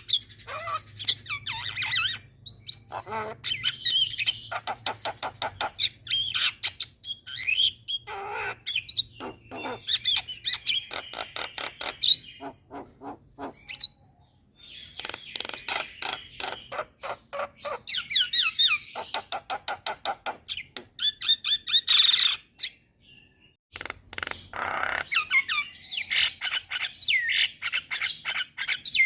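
Asian starlings (jalak) singing: loud, rapid chattering bursts of clicking notes mixed with whistled glides and harsh calls, broken by short pauses about halfway through and again about two-thirds of the way in. This is lure song of the kind used to prompt caged starlings to answer.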